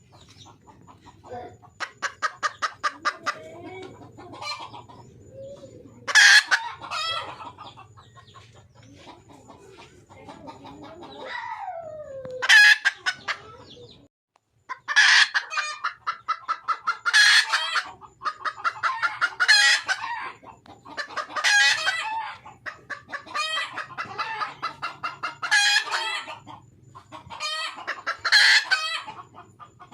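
Wild junglefowl hen calling for a mate: trains of rapid clucks, then loud, high cackling calls repeated about every two seconds through the second half.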